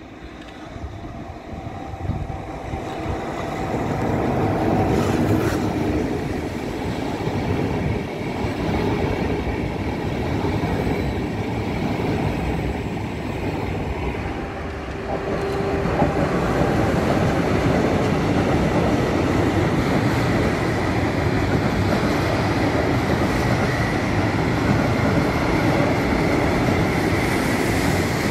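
Trains passing on an electrified main line: a passenger train draws near and grows louder over the first few seconds as it runs by, then, from about halfway through, a long container freight train rolls past with steady wheel-on-rail noise.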